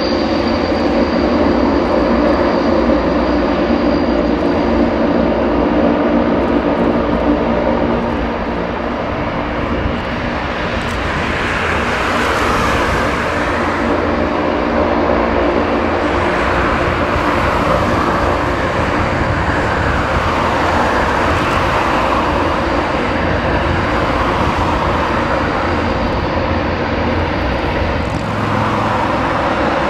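The four Ivchenko AI-20 turboprop engines of an Antonov An-12 running loudly, a steady drone with propeller tones. From about eleven seconds in, the sound takes on a wavering, sweeping quality as bands of pitch rise and fall over and over.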